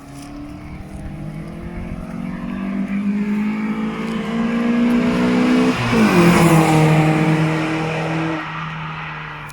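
Alfa Romeo 146 Ti's 2.0 Twin Spark four-cylinder engine and exhaust accelerating, its pitch climbing steadily until an upshift about six seconds in drops it sharply; it pulls on at the lower pitch and eases off near the end.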